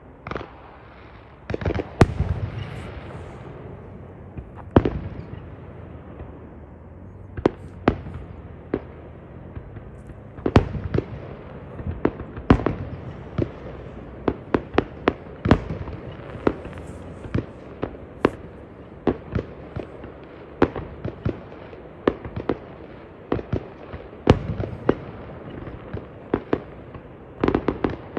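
Fireworks going off: dozens of sharp bangs at irregular intervals, coming thicker and faster from about ten seconds in.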